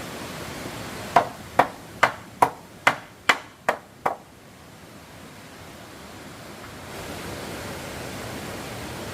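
Hammering on wood: eight evenly spaced blows, a little over two a second, that stop about four seconds in, over a steady rushing hiss.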